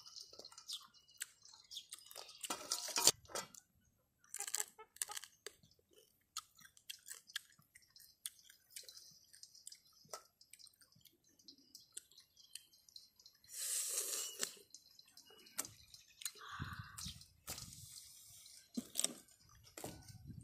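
Chewing and crunching on raw baby crabs, their small shells cracking in quick irregular clicks amid wet mouth sounds, with a longer hissing burst about fourteen seconds in.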